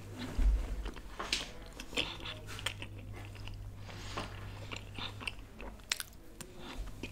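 Close-miked chewing of a mouthful of food, with scattered wet clicks and crunches, and another bite taken near the end.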